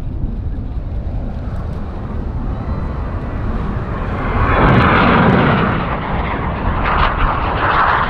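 Jet noise from the Red Arrows' BAE Hawk trainers, single Rolls-Royce Turbomeca Adour turbofans, as the jets fly past; it swells to its loudest about five seconds in.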